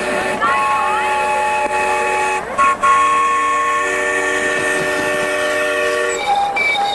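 Several miniature-railway train whistles blowing at once in overlapping chords, the mix of tones changing every second or two. About six seconds in, the held chord gives way to a run of short, separate toots.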